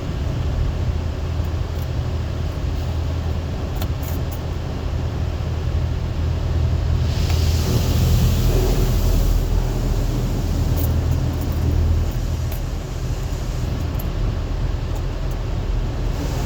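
Automatic car wash running through its scrubbing cycle: a steady low rumble of machinery and brushes, with a louder hiss of spraying water about seven seconds in that lasts a couple of seconds.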